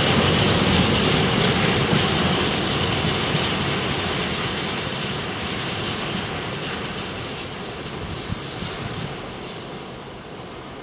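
Wheels of an intermodal freight train's container flat wagons rolling along the rails as the tail of the train passes and draws away, the rumble fading steadily into the distance.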